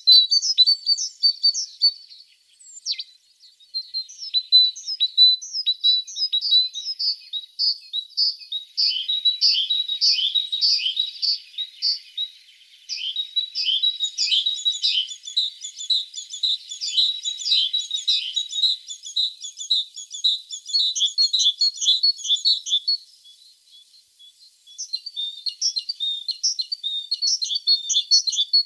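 Tits singing: fast runs of short, high-pitched, downslurred notes, several a second, with a second song overlapping through the middle. Brief lulls come about three seconds in and again near the end.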